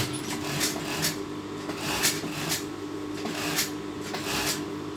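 Cloth being handled and positioned at a sewing machine between seams: scattered soft rubs and small clicks at an uneven pace, over a steady low hum.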